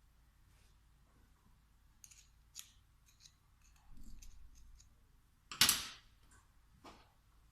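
Small metal parts and hand tools clicking and tapping during work on a diesel injection pump: a scatter of light clicks, a dull knock, then one louder clack about three-quarters of the way through and a last click.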